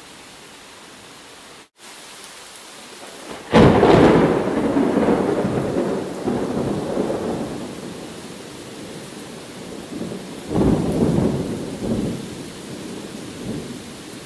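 Steady rain with two rolls of thunder: a loud one about three and a half seconds in that dies away slowly, and a smaller one near the end. The rain cuts out for a split second early on.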